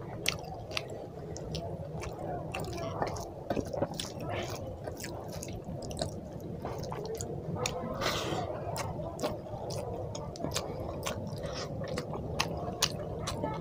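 Close-miked wet chewing of hand-eaten rice and curry, with frequent sharp lip smacks and mouth clicks, over a steady low hum.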